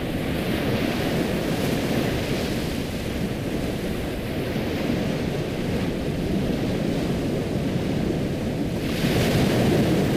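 Ocean surf: a steady rush of waves washing in, with one wave breaking louder about nine seconds in.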